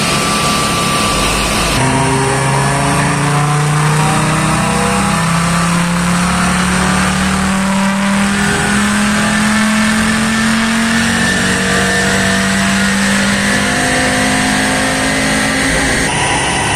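Volkswagen Vento Variant's 2.5-litre five-cylinder engine doing a dynamometer power run. From about two seconds in the engine note climbs steadily through the revs under load for about twelve seconds, then falls away near the end as the pull finishes.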